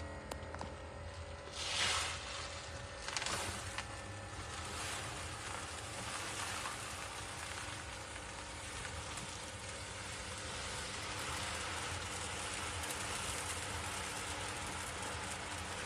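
Cat litter rustling and sliding in a steady granular hiss, with two louder rushes of litter near the start.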